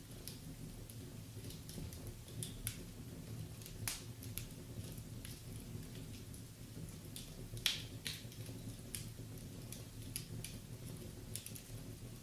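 Wood fire burning in a fireplace: a steady low rumble of the flames with irregular sharp crackles and pops, the loudest about two-thirds of the way through.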